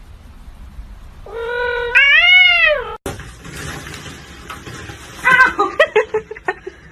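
A cat's long, loud meow, held level and then arching up and down in pitch, about a second and a half long, starting about a second in.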